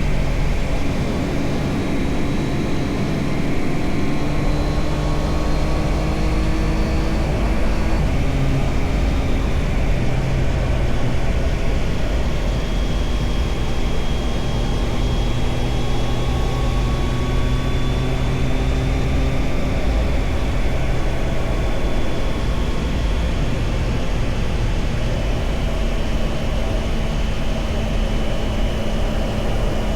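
Triumph Tiger Sport 660's three-cylinder engine pulling on the road, with heavy wind rush over the microphone. The engine note climbs, drops at a gear change about eight seconds in, then holds fairly steady.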